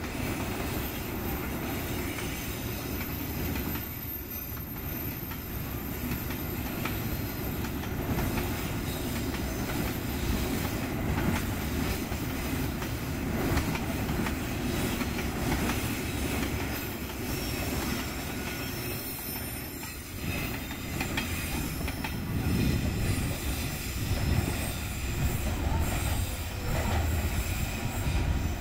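Container freight train's wagons rolling past close by: a steady rumble of wheels on rail with repeated clacks as the wheels run over rail joints.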